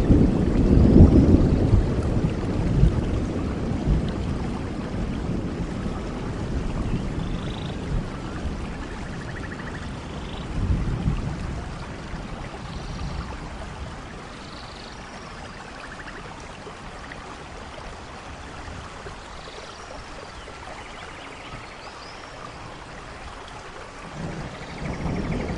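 Steady rain with rolling thunder. A deep rumble fades away over the first several seconds, a smaller swell comes about 11 seconds in, and a new rumble builds near the end.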